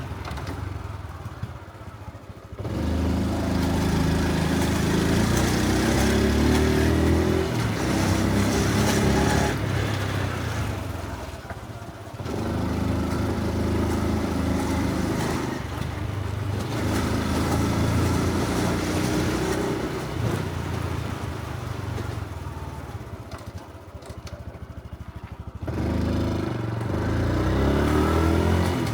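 Honda Super Cub C125's small single-cylinder four-stroke engine and exhaust while riding. It pulls up through rising revs in several stretches and eases off three times, when the sound drops and quietens.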